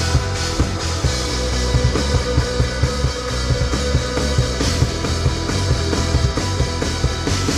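Rock band playing live: a drum kit keeps a steady beat under sustained guitar.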